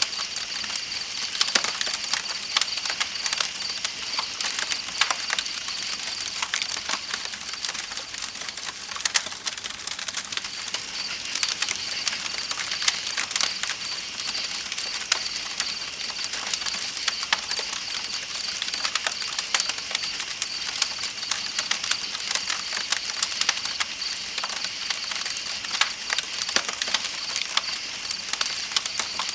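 Campfire crackling with frequent sharp pops, over a steady high chirping drone of night insects and the soft, even rush of river water.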